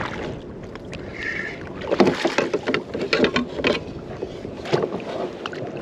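A hooked speckled trout thrashing at the surface beside a kayak: a run of irregular splashes and knocks starting about two seconds in.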